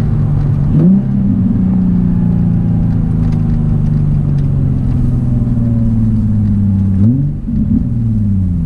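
Nissan 350Z's VQ35DE V6 running through an ISR single-exit catback exhaust. The engine note rises sharply about a second in, eases slowly down for several seconds, then rises and falls again near the end.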